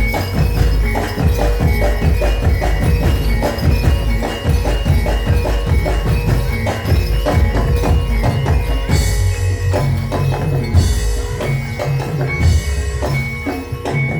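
Javanese kuda lumping (imblig) ensemble music played live. Ringing metallophones repeat a melody over a dense run of drum strokes, with cymbal-like crashes about 9, 11 and 12.5 seconds in.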